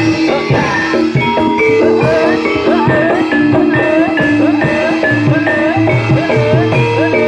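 Loud live Javanese barongan accompaniment music: gamelan metallophones play a repeating pattern of struck notes over a steady drum beat, with a wavering melody line above.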